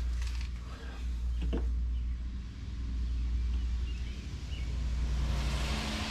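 RBG 712 mower blade sharpener's grinder motor running with a steady hum while a mower blade is worked against it in passes, the sound swelling and easing. A hissing grind of steel on the abrasive comes through about five seconds in.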